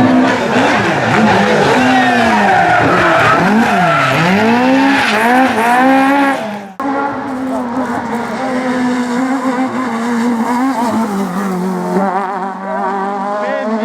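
Rally car engine revving hard, its pitch rising and falling quickly. About halfway it breaks off suddenly and a steadier engine note follows, held at fairly even revs.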